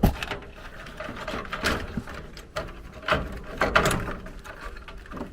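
Irregular clicks and rattles of wire connectors and small tools being handled while wiring a gas furnace's control board.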